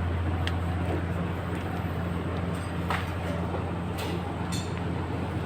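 Steady low mechanical hum of a running machine, with a few faint clicks and taps.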